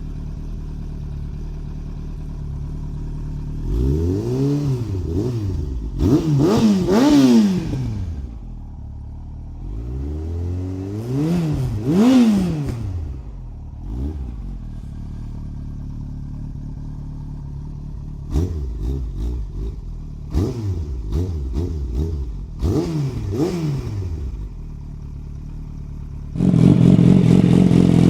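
Yamaha R1 motorcycle's inline-four engine idling and revved in place: a few throttle blips that rise and fall, then a run of short, quick blips. Near the end it jumps to a louder, steady run.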